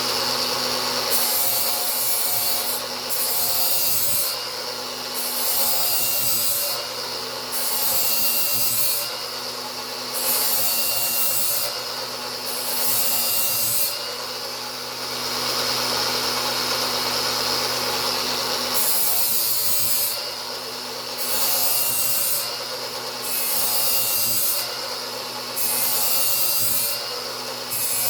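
Angle grinder running steadily while its disc grinds a new edge on a steel lawn mower blade. The blade is worked in repeated passes about every one to two seconds, each adding a harsh hiss over the motor's whine, with one longer pass near the middle.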